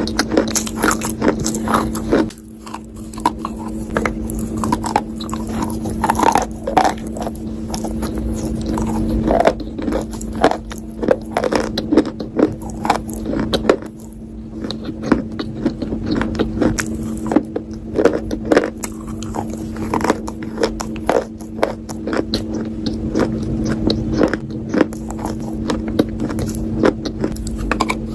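Close-miked biting and crunching of a hard, brittle earthy material, the sharp cracks coming several times a second between stretches of chewing, over a steady low hum.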